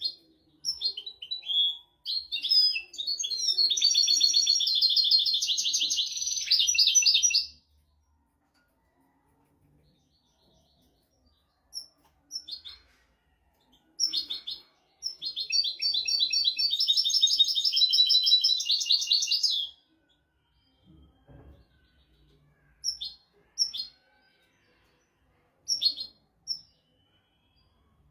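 European goldfinch singing: two long phrases of rapid, high twittering trills, each about five seconds, separated by a pause, with short single call notes scattered between them.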